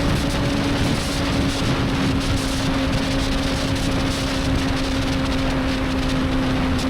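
Motorcycle engine running at steady cruising revs, with heavy wind rush over the microphone. The engine note drops slightly near the end.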